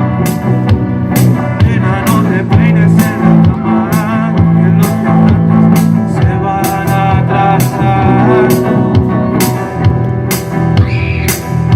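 Live band playing rock music, with guitar, bass and a drum kit keeping a steady beat of cymbal and drum hits.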